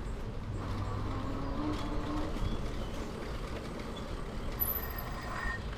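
Steady low rumble of wind on the microphone and rolling noise from an electric bike being ridden along a bumpy path.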